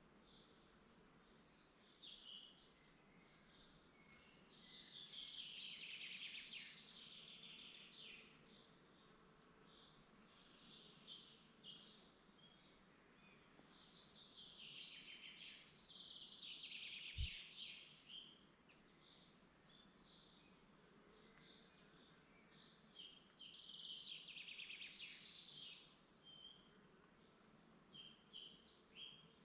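Faint woodland birdsong: trilled song phrases come in three long bouts several seconds apart, with scattered short chirps between them. A single brief low bump sounds about two thirds of the way through.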